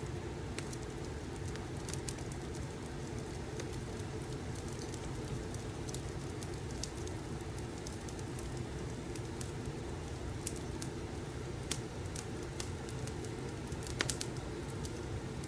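Fireplace crackling: scattered sharp pops and snaps over a steady low rumble, with a quick cluster of pops near the end.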